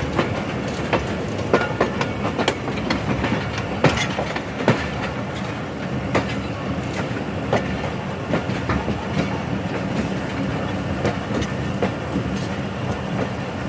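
Passenger train rolling through the station, its wheels clattering over rail joints with irregular sharp clicks and knocks over a steady rumble.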